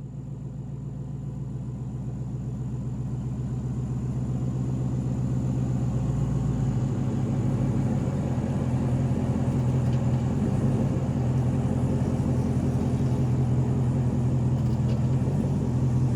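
Jeep Wrangler JK engine running at low trail speed with a steady low hum, growing louder over the first several seconds and then holding even.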